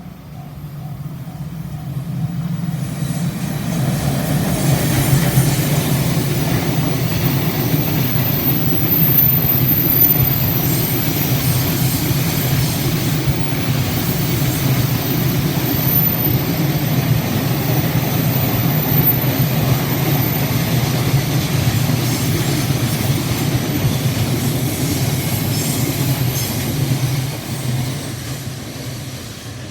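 Train on the Tōkaidō Main Line passing close by: the rumble and wheel noise build over the first few seconds, hold steady and loud for over twenty seconds, then drop away near the end.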